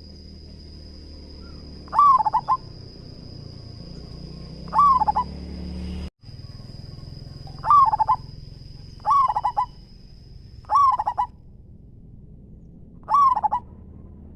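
Zebra dove (perkutut) cooing: six short bursts of quick, rolling coo notes, spaced a second and a half to three seconds apart. A faint, steady high-pitched whine and a low hum run underneath.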